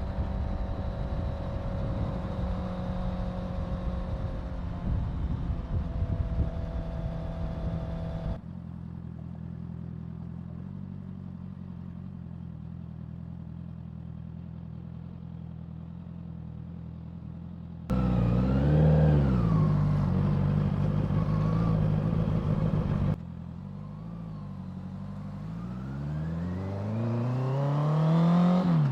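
Honda CBR650F inline-four engine heard while riding. It starts under way with wind rush and a slowly falling pitch, then settles to a steady, quieter idle about eight seconds in. Around eighteen seconds in it revs up and down in short blips, and near the end it accelerates with a steadily rising pitch.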